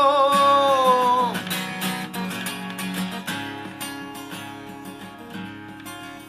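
Acoustic guitar accompanying a voice that holds a sung note ending about a second in; the guitar then plays on alone, growing gradually quieter.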